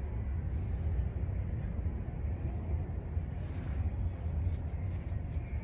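Wind buffeting the microphone: a steady, fluctuating low rumble, with a few faint clicks and a brief hiss about three and a half seconds in.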